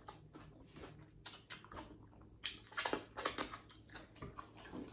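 A person eating seafood boil close to the microphone: chewing and mouth sounds with a scatter of sharp clicks and crackles, busiest and loudest a little past halfway.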